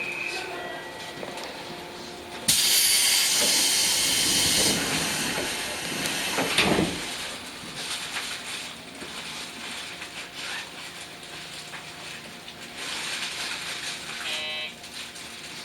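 Sudden loud hiss of compressed air lasting about two seconds from a JR 415-1500 series electric train as it departs, followed by the quieter sounds of the train moving off.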